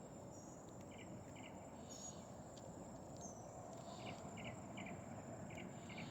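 Faint insect chorus of crickets: a steady high drone with short chirps, often in pairs, repeating every half second or so.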